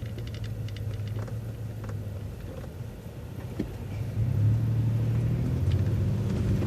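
MCO ViewMaster transit bus engine heard from inside the bus: a steady low idle hum at a traffic light, growing louder about four seconds in as the bus pulls away.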